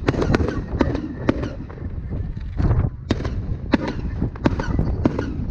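Fireworks display: a rapid, irregular series of sharp bangs and pops from bursting shells, over a steady low rumble.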